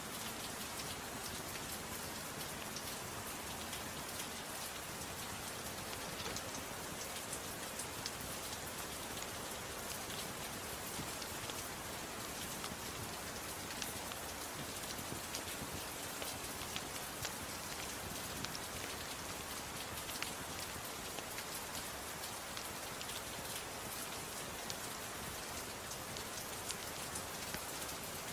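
Gentle rain falling steadily, mixed with a fireplace fire crackling in scattered sharp little pops.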